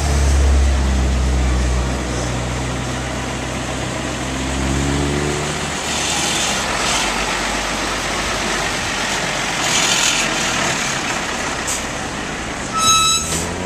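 A heavy motor vehicle's engine running with a strong low hum, its pitch rising a few seconds in as it pulls away, over steady outdoor traffic noise. A short high-pitched tone sounds near the end.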